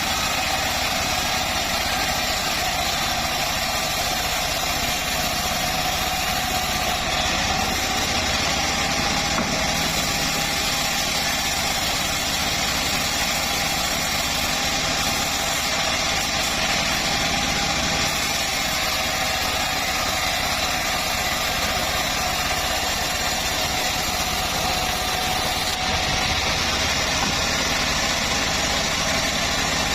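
Home-built bandsaw mill running steadily for the whole stretch, a continuous machine noise with a constant whine and no stops or changes in load.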